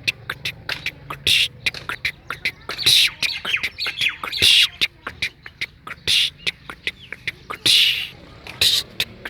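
Birds calling: a busy, irregular run of sharp chirps and clicks with short harsh squawks mixed in.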